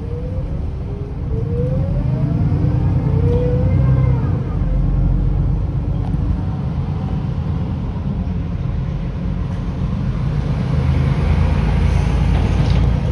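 Mercedes-Benz O530 Citaro city bus pulling away: the whine of its ZF automatic gearbox rises in pitch over and over through the first four seconds, over the steady rumble of its OM906hLA diesel, then settles into even running.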